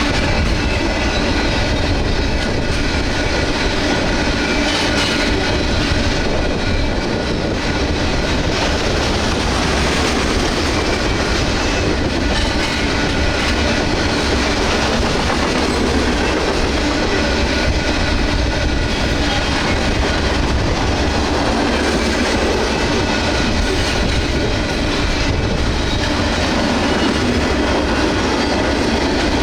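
Loaded freight train of gypsum gondola cars rolling past at speed: a loud, steady rumble with wheels clattering over the rail joints.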